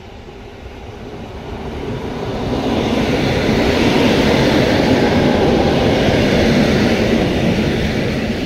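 EN57FPS electric multiple unit passing close by at speed: a broad rumble of wheels on the rails that builds over the first few seconds, is loudest in the middle and fades near the end as the train goes by.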